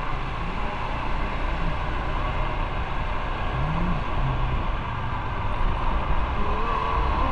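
Motorcycle on the move: steady engine and road noise under a loud, even rush with a heavy low rumble.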